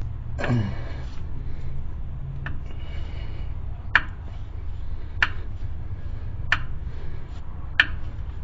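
Wrench working the oil filter loose, giving four sharp metallic clicks about a second and a quarter apart over a steady low hum.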